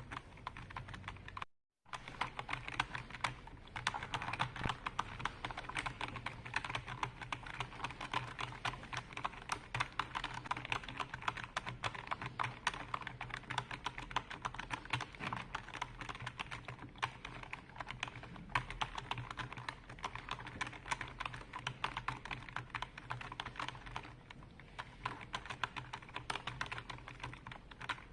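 Computer keyboard being typed on: a fast, continuous stream of key clicks. The sound drops out completely for a moment about one and a half seconds in, then the typing resumes.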